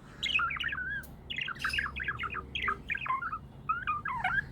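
Pet budgerigars chirping: a busy, steady stream of short chirps and warbles.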